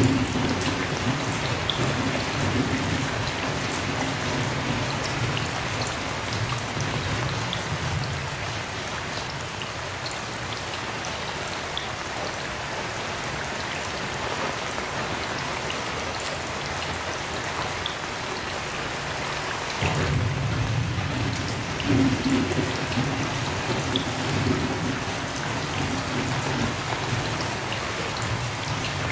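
Heavy rain falling steadily. Low rolling thunder rumbles under it for the first several seconds, fades, and comes back about two-thirds of the way through, swelling briefly before the end.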